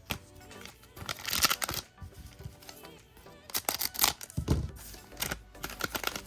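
Trading card booster pack wrapper and cards being handled: crinkling and rustling in several bursts, over steady background music.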